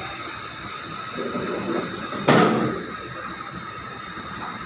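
Train at a station: steady running noise with a hiss, and one sudden loud burst about two seconds in that fades within half a second.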